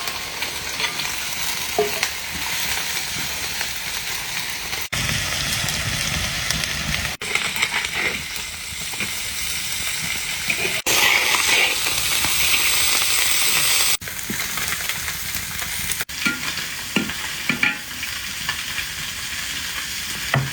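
Food sizzling as it fries in a pan, with stirring scrapes and small knocks. The sound jumps at several cuts, with a louder, brighter sizzle for a few seconds around the middle.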